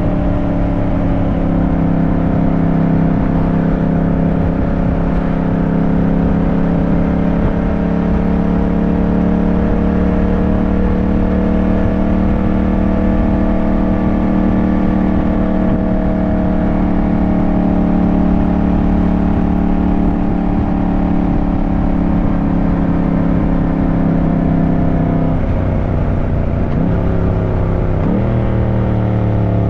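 Yamaha motorcycle engine running at steady revs under way. About 25 seconds in the revs fall, then climb again in short rises near the end as it pulls through the gears.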